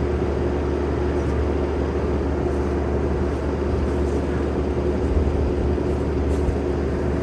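Engine running steadily at one speed: a constant low drone with a steady hum above it.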